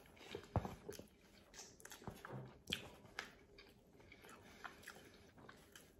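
Close-up chewing and mouth sounds of a man eating pizza: irregular soft smacks and clicks, a couple of them louder.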